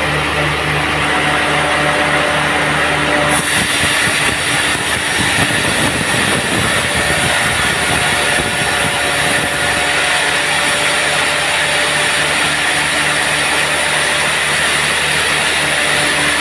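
Sawmill running under power, a steady machine noise with a pulsing low hum. About three seconds in the sound turns rougher and noisier for several seconds, then settles back to a steady run.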